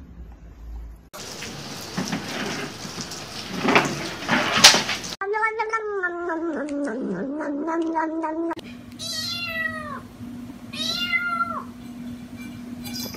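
Domestic cats meowing: a long meow that wavers up and down in pitch, then two short kitten meows that each fall in pitch.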